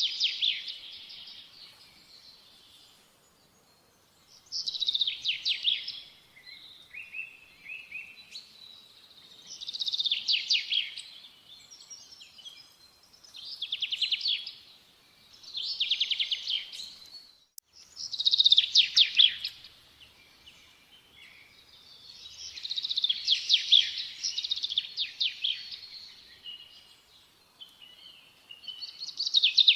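A songbird singing high, fast-trilled song phrases about a second or two long, repeated every few seconds with short pauses between.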